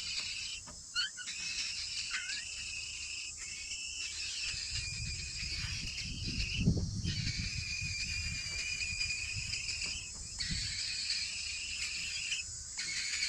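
Steady high-pitched trilling of an insect chorus, broken by short gaps every few seconds, with a few brief chirps about a second in and a low rumble about halfway through.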